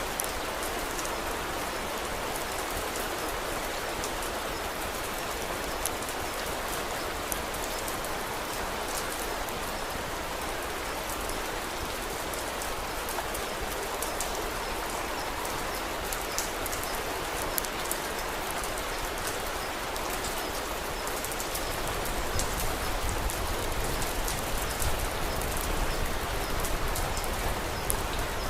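Steady rain falling, with scattered sharp crackles and drips. About two thirds of the way through, a low rumble joins and the sound grows a little louder.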